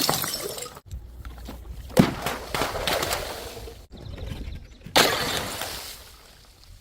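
Glass bottles smashing on stairs. A crash fades out at the start, then come two separate sharp breaks, about two seconds and five seconds in, each followed by shards scattering and tinkling as they die away.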